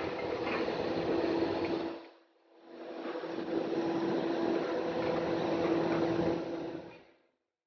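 Heavy demolition machinery running with a steady engine hum and mechanical noise, heard in two stretches that fade in and out, the second lasting about four seconds before fading to silence near the end.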